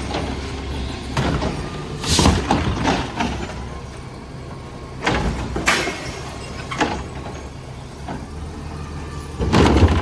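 Garbage truck engine running steadily, broken by several short loud bursts of banging, clatter and hiss from the truck working the recycling carts, the last and loudest near the end.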